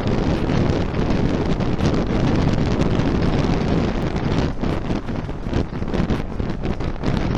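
Wind buffeting the microphone: a loud, steady rush of air noise with no letup.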